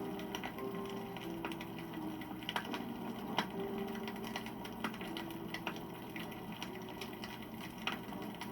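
Wood campfire crackling, with irregular sharp pops and snaps, a few louder ones around the middle. Soft, slow background music with held notes plays underneath.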